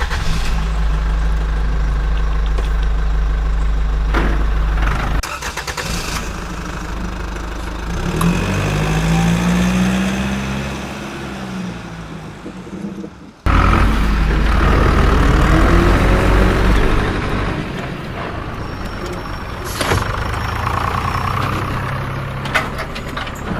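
Toy vehicle's electronic engine sound effect: a low rumble with the pitch revving up and down. It cuts off and starts over loudly about halfway through.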